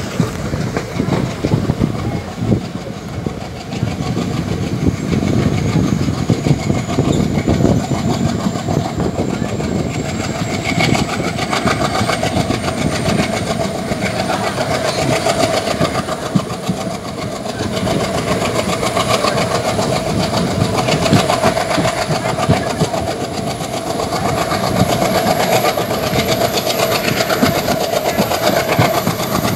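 Passenger train running, heard from an open doorway: the carriage rattles on the rails with steady wind rush, and a faint high whine climbs slowly in pitch throughout.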